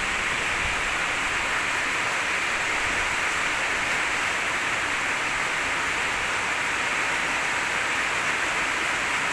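High-pressure water spraying from the gun of an H&L QL-1200 jet cleaner: a steady, even hiss.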